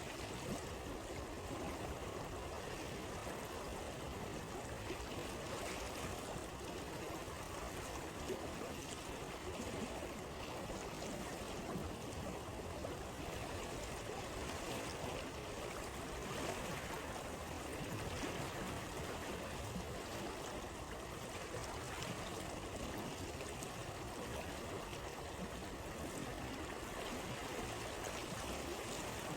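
Flowing stream running steadily, with faint crackles of a campfire here and there.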